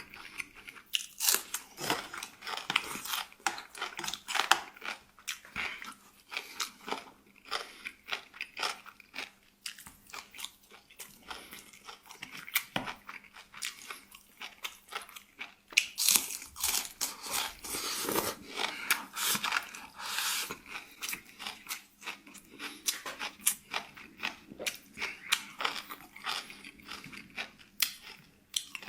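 A person chewing and crunching food close to the microphone: pig-head meat tossed with cilantro root, with irregular crisp crunches and bites throughout.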